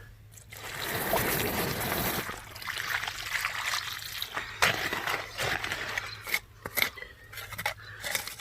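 Water splashing and trickling unevenly, with several sharp clicks and knocks in the second half.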